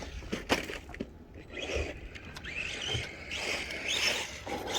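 Hobby-grade RC short-course truck running on a dirt track: its electric motor gives short whines that rise and fall with the throttle, mixed with tyre and chassis noise and a few sharp knocks in the first second.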